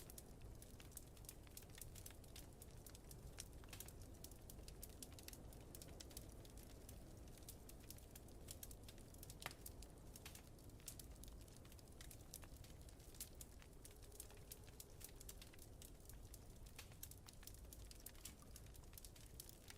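Faint crackling of a wood fire in a fireplace: many small sharp pops and snaps, one louder pop about halfway through, over a low steady rumble.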